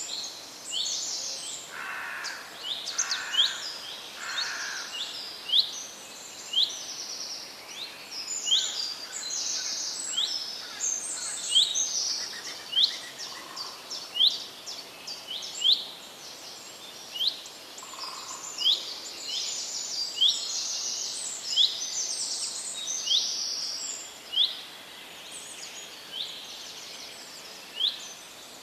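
Small songbirds chirping: a steady run of short, high chirps, roughly one or two a second, with a few lower calls a couple of seconds in.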